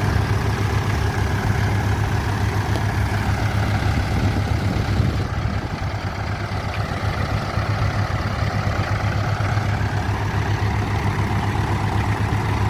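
Tractor diesel engine running steadily, a low hum with an even, rapid beat. It drops a little in level about five seconds in.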